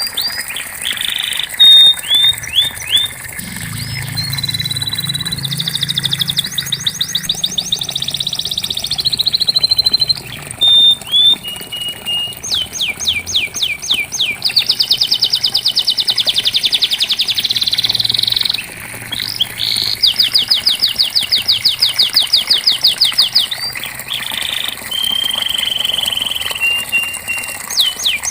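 Domestic canary singing without a break: fast rolling trills of rapidly repeated notes alternating with short, held whistled notes.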